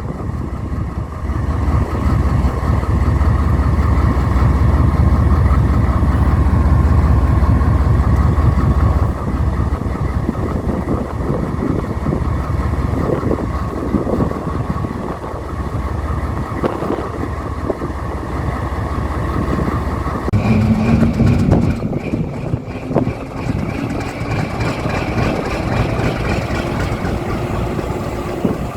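Diesel locomotive engines running with a heavy, steady low rumble and a thin whine above it. The rumble is loudest for the first nine seconds or so, then eases, and a new steady tone joins about twenty seconds in.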